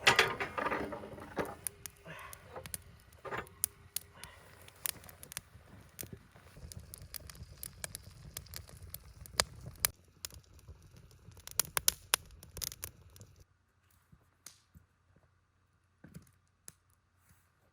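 Freshly lit wood fire crackling, with frequent sharp snaps and pops. A little past two-thirds of the way in, the sound drops away to only a few faint ticks.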